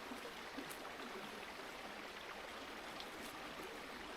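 Steady rushing of a nearby river, with a few faint clicks.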